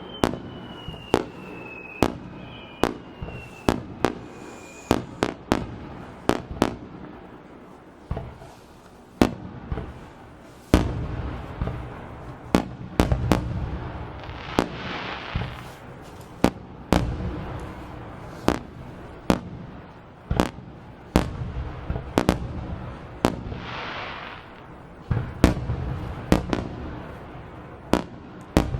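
Aerial fireworks display: a continuous run of sharp shell bursts, a few every second. Denser volleys of low booms come in the middle and near the end, with a spell of fizzing crackle twice.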